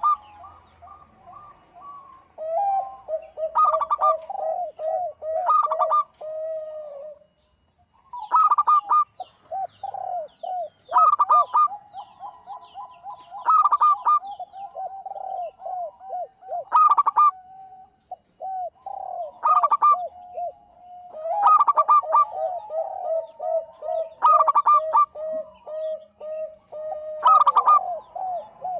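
Zebra dove (perkutut) singing continuously: phrases of quick, staccato cooing notes, repeating every two to three seconds and at times overlapping.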